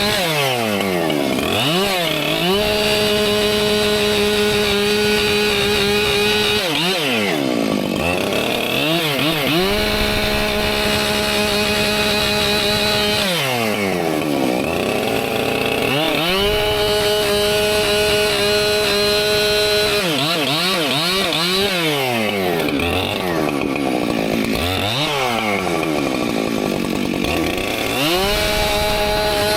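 Husqvarna two-stroke chainsaw running at high revs while bucking firewood. Its pitch dips and climbs back about five times between stretches of steady running as it works through the wood.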